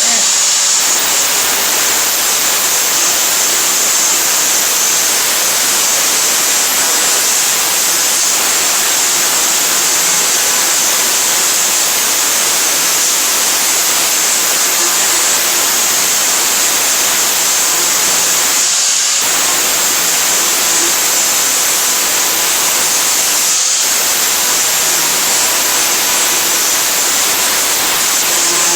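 Power grinder running steadily against the rusty steel of a truck bed, grinding off rust. It makes a loud, continuous hiss with a thin high whine, and cuts out briefly twice in the second half.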